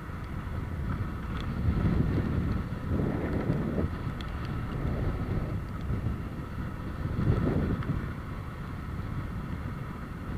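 Wind buffeting the microphone in gusts that swell and fade every few seconds, over a low steady rumble.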